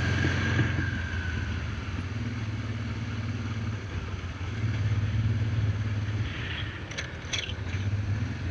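Motorcycle engine running steadily at low revs, its note swelling and easing, with two short clicks about seven seconds in.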